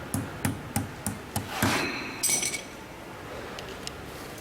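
Quick light metal knocks, about three a second, then a single ringing metallic clink, as metal parts of a pellet mill's compression roller assembly are struck and handled during disassembly.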